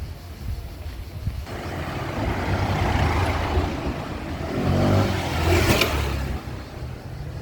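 A motor vehicle driving past close by, its engine and road noise growing louder, peaking about five or six seconds in, then fading away.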